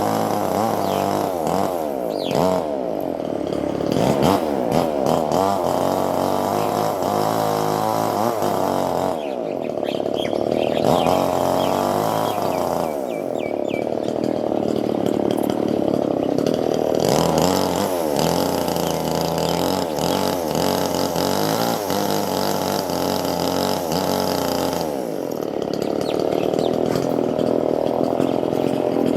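A small engine running continuously, its pitch repeatedly rising and falling as it is revved up and down.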